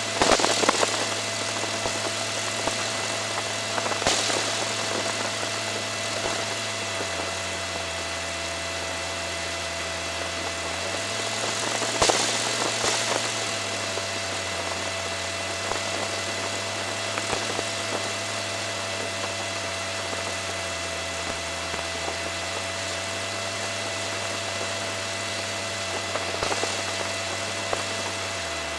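Light aircraft's piston engine running steadily at low power, heard from inside the cockpit, its pitch shifting slightly about eleven seconds in. A constant thin electronic whine sits over it, with a few brief rushing surges of noise.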